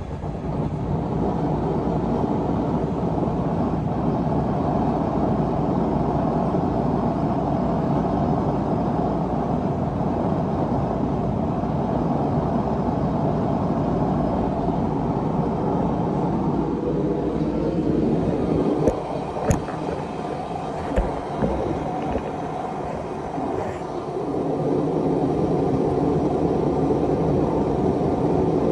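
Gas forge burner running with a steady rushing noise. Partway through it dips for several seconds while a few sharp knocks sound, then it comes back to full.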